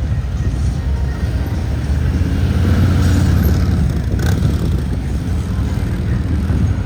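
Police motorcycle engine running at low speed on a cone course, with the engine note rising and falling about three seconds in as the throttle is worked.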